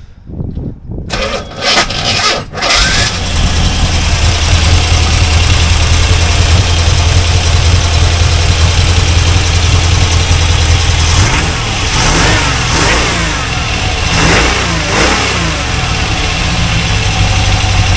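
Corvette's carbureted Chevrolet 350 small-block V8 cranked and catching about three seconds in, then running steadily, with a few rising and falling revs of the throttle between about 11 and 16 seconds. It runs without the rod knock feared after the rebuild.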